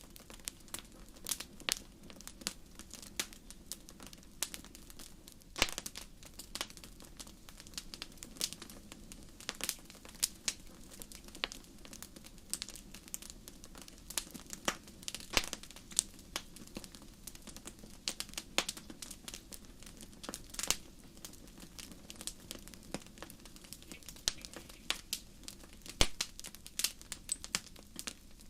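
Wood fire crackling: irregular sharp pops and snaps, a few much louder than the rest, over a soft steady background.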